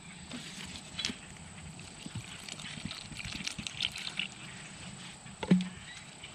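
Biscuit dough being mixed by hand in a bowl: scattered soft, wet clicks and crackles, with a sharper knock about a second in and a louder one near the end.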